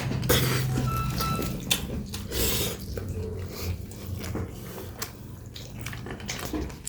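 A person chewing and eating food, with scattered small clicks and taps.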